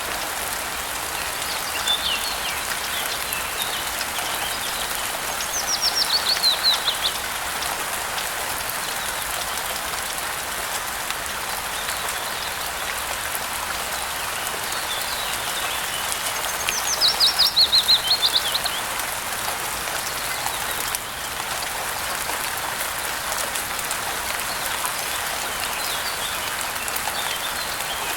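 Steady rain pattering, with a songbird singing over it. A fast trill of rapid notes falls in pitch, about five seconds in and again about eleven seconds later, with fainter chirps in between.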